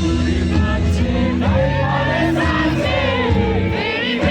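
Live band music over loudspeakers at an outdoor concert, with crowd voices singing and shouting along.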